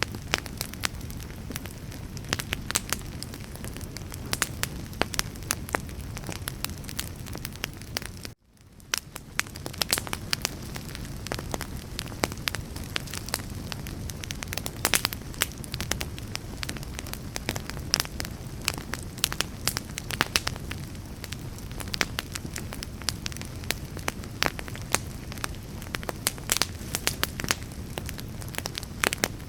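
Wood fire crackling, with many sharp pops over a low steady rumble of flame. About eight seconds in, the sound cuts out for a moment and then fades back in.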